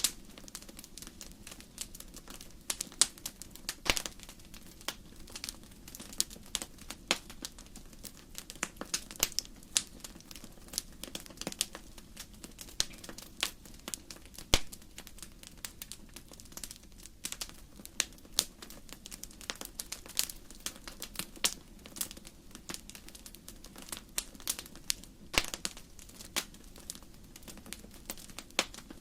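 Wood fire in a fireplace crackling: irregular sharp snaps and pops of burning logs, several a second, over a soft steady hiss of the flames.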